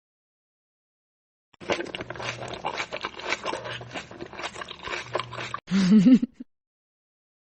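Close-up crunchy chewing, a dense run of crackles and clicks, ending with a short loud wavering vocal "mm"-like sound about six seconds in.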